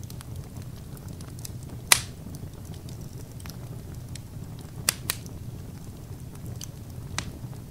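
Wood fire in a fireplace crackling over a low rumble of the flames, with scattered sharp pops: a loud one about two seconds in and two more in quick succession near the middle.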